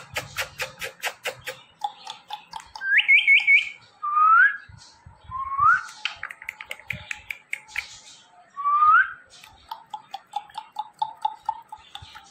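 Ringneck parrot whistling: a quick triple whistle, then several short whistles that slide upward. A run of rapid clicks opens it, and a fast, pulsing chatter comes near the end.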